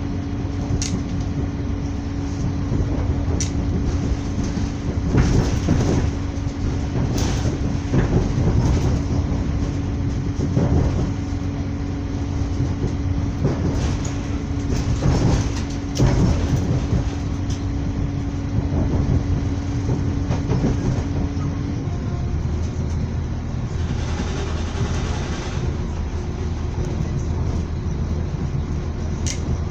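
Moving train heard from inside the carriage: steady rolling rumble with wheels clicking and knocking over the rail joints. A steady hum runs under it and gives way about two-thirds of the way through to a fainter, higher one.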